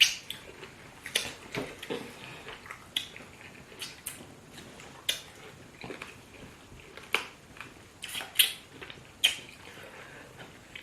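Eating fufu with spinach soup: a dozen or so short, wet smacks and clicks of mouths and hands on the food, irregularly spaced about a second apart.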